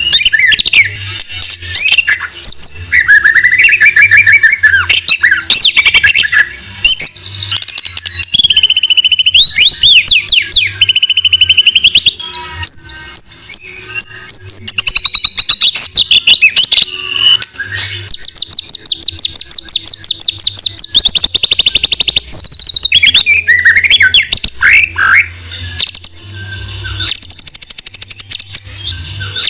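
White-rumped shama (murai batu) singing a loud, near-continuous, varied song of rapid trills, gliding whistles and fast repeated notes. It is the kind of recorded song played as a 'masteran' for other songbirds to learn from.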